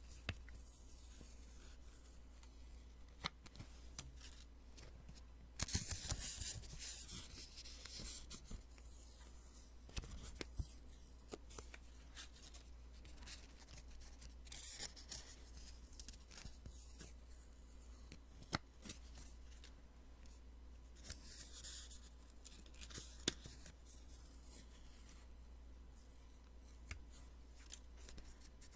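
Post-it sticky notes being peeled off a pad close to the microphone. There are three longer peels, about six, fifteen and twenty-one seconds in, with light paper clicks and taps between them.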